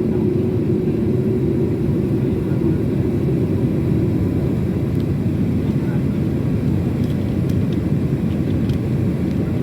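Steady low rumble of a jet airliner heard from inside the passenger cabin, with a faint steady hum that fades out about three seconds in.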